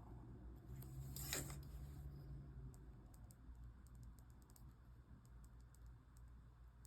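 Quiet desk sounds of paper and stationery being handled: a short scraping rustle about a second in, then a run of small, light clicks and taps.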